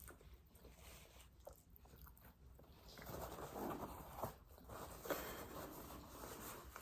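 Faint eating sounds: chewing and small crunches, a little louder from about three seconds in.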